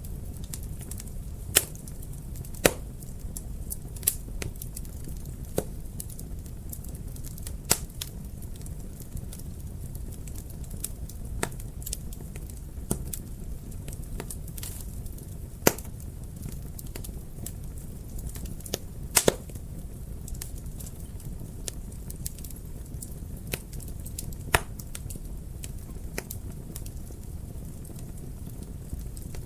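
Wood fire crackling in a fireplace: irregular sharp pops and snaps over a low, steady rumble of flames, with a few pops much louder than the rest.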